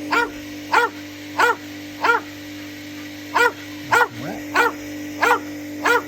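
Nilfisk pressure washer motor running with a steady hum while a dog barks at it over and over, nine sharp barks a little over half a second apart. The owner holds that the motor works and suspects a pressure fault.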